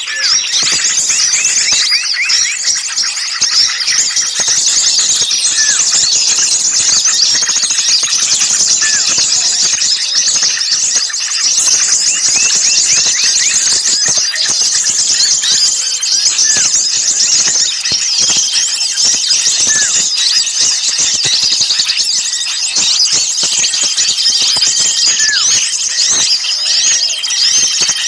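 A dense, loud chorus of many small songbirds calling over one another in rapid high chirps and trills, with a short repeated call every second or two lower down. It is a bird-lure mix of noisy, excited small-bird calls.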